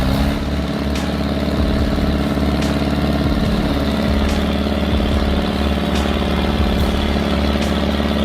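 Vehicle engine running at a steady speed, with faint ticks about once a second.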